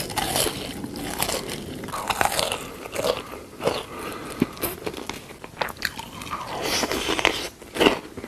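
Crunchy biting and chewing of food, close to the microphone: a dense, irregular run of crackly crunches.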